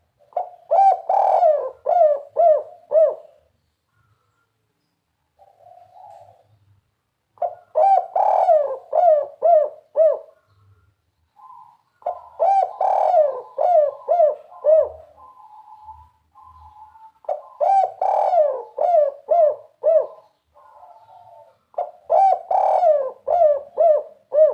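Spotted dove (tekukur) cooing in the 'kuk 3' style: five loud bouts of quick, looping coos, each lasting about three seconds, a few seconds apart. Softer coos come in some of the gaps.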